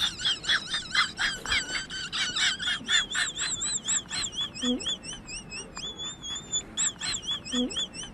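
Young birds peeping: a fast series of high, wavering peeps, about four a second. Several overlap at first, and later they thin to fewer, more regular peeps.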